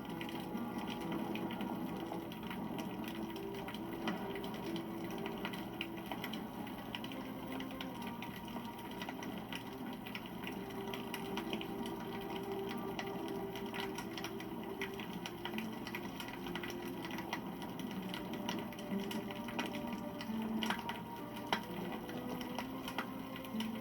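Wood campfire burning, with frequent small crackles and pops over a steady rustle of flames.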